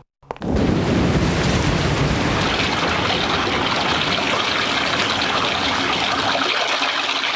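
Wind-driven rain rushing steadily, with a heavy low rumble, starting about half a second in.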